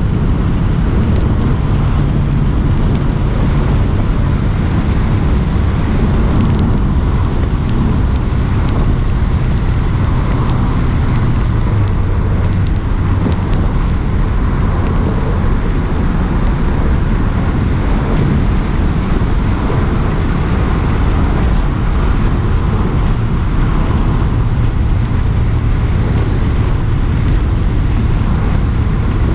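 Porsche 718 S's turbocharged 2.5-litre flat-four engine running steadily while driving, its low note shifting a little in pitch, over steady road and wind noise.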